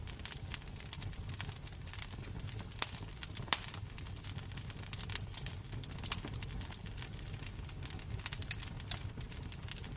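Wood fire crackling in a fireplace: irregular sharp pops and snaps, a couple of louder ones about three seconds in, over a low steady rumble.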